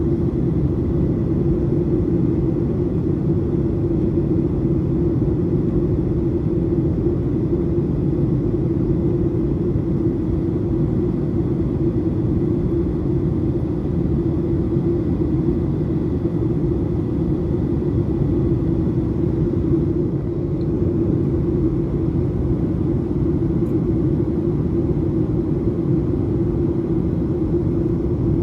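Steady cabin noise of a Boeing 737-800 airliner in flight: an even engine and airflow rumble with a faint steady high tone above it.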